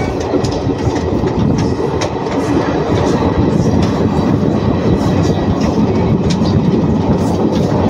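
Indian Railways passenger train running along the track, heard from on board: a loud, steady rumble of wheels on rails with irregular sharp clicks.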